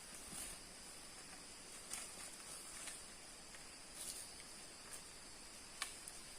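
Faint steady high-pitched buzz of forest insects, with a handful of light rustles and snaps scattered through it, the sharpest near the end.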